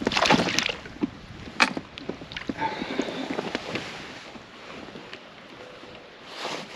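Knocks, taps and rustling from handling a freshly landed bass and tackle in a kayak, loudest in the first second, then scattered light clicks over a soft hiss.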